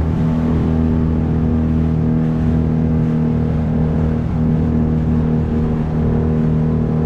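A 9.8 horsepower outboard motor running steadily under way, a constant engine drone with no change in pitch.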